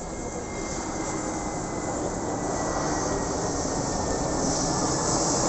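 Jet airliner's engines, a steady rushing noise with a faint high whine, growing louder as the plane approaches.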